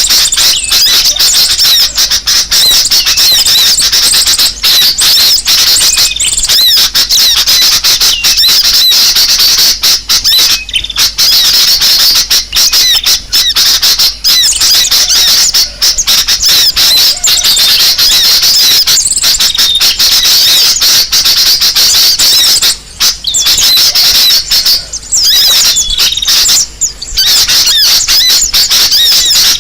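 Dense, loud chorus of many small birds chattering, squeaking and twittering at high pitch without pause: a noisy-bird lure recording (suara pikat burung ribut) played to draw birds in. It drops out briefly a few times in the last third.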